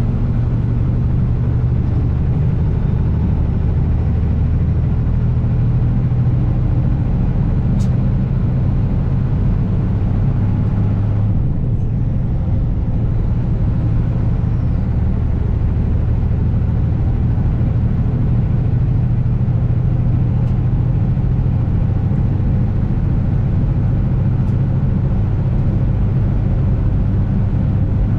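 Kenworth W900 semi truck driving, its diesel engine running in a steady low drone under road and wind noise, with a brief change in the engine note about eleven to twelve seconds in.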